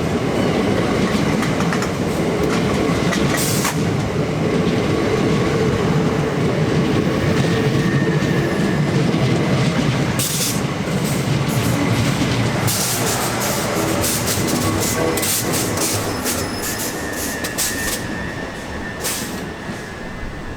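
Class 375 electric multiple unit running into the platform, its wheels and motors loud and steady, then easing off over the last few seconds. A run of short clicks comes in the second half.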